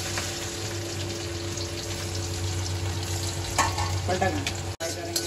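Garlic sizzling in hot oil in an iron kadhai: a steady frying hiss over a low hum, with a few sharp clicks of utensil on pan in the second half.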